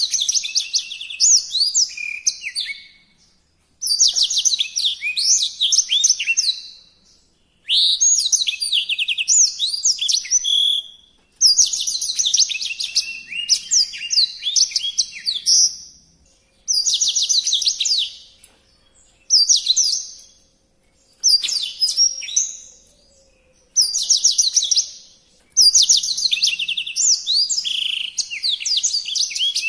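A songbird in full song: phrases of rapid, high twittering notes, each two to four seconds long with brief pauses between, about nine phrases.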